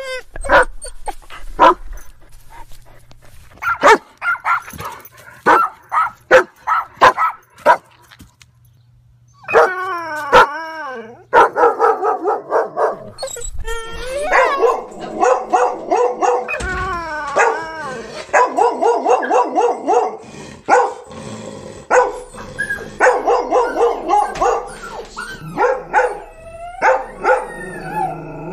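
Dogs barking: a run of sharp, separate barks, a short pause, then wavering whines and a long stretch of rapid yapping.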